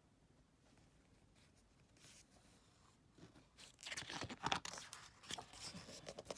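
Paper rustling and crinkling as a book page is turned, starting about three seconds in and loudest just after.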